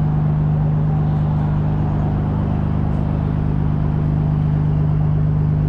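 A steady mechanical drone at one constant low pitch, with no change in speed or level.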